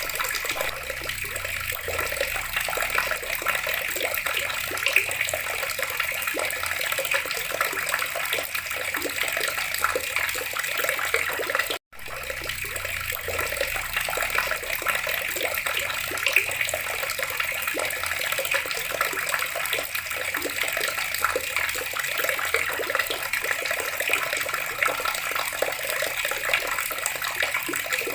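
Water running steadily from a tap. It cuts out for an instant about twelve seconds in, then carries on as before.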